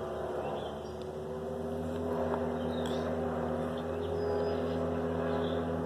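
A steady motor drone, like an engine or machine running, holding one even pitch.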